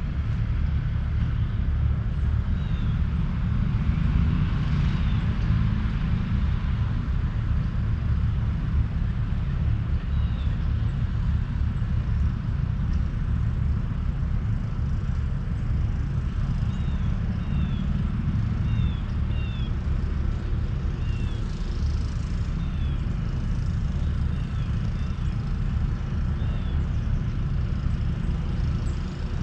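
Outdoor morning ambience: a steady low rumble with short, high, falling bird chirps scattered through it, coming in quick runs past the middle.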